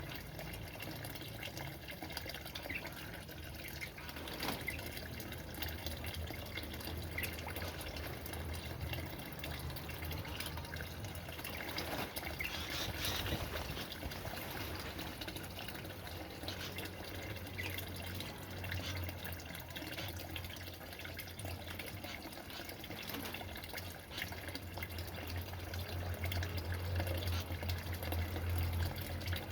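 Water running and trickling steadily, with a low steady hum underneath that grows a little louder near the end.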